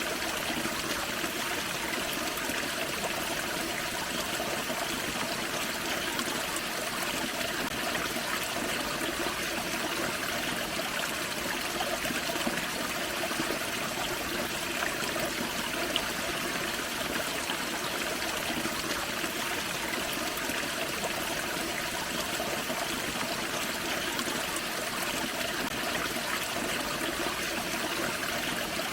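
Small forest creek waterfall: water splashing and trickling over rocks in a steady, even rush.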